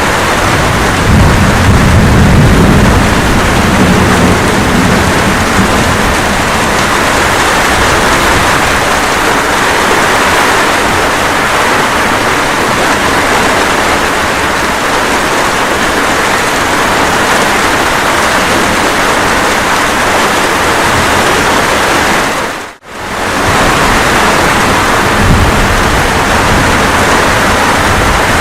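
Steady rain with low thunder rumbling in the first few seconds and again near the end. The sound drops out suddenly for a moment about two-thirds of the way through.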